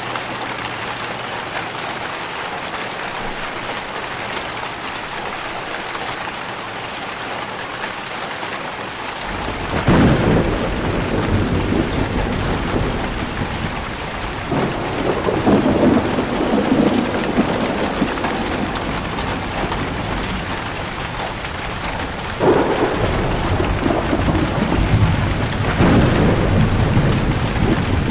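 Steady rain falling, joined about nine seconds in by rolling thunder that rumbles on with several louder swells.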